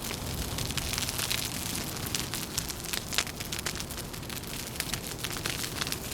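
Wood fire crackling, with many quick irregular pops and snaps over a steady noisy hiss.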